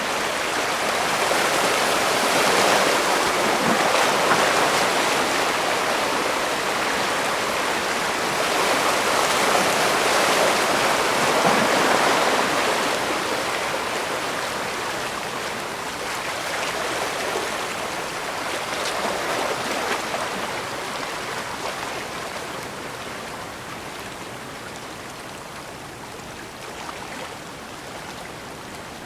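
Water from the bay washing against the shore as a continuous rush. It swells twice and then gradually dies down.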